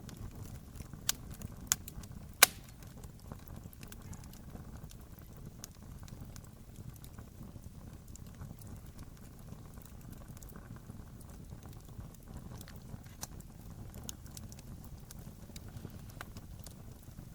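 Wood campfire burning: a steady low rumble of flames with scattered crackles and sharp pops, the three loudest pops coming close together in the first few seconds.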